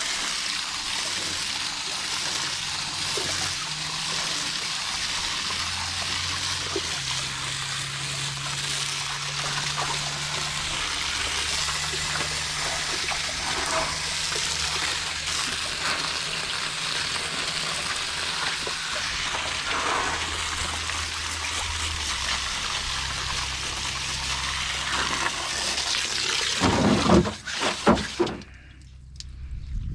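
Garden-hose spray nozzle jetting water onto an air-conditioner condenser's coil: a steady hiss of spray with a low hum underneath. Near the end come a couple of loud knocks, and then the spray shuts off.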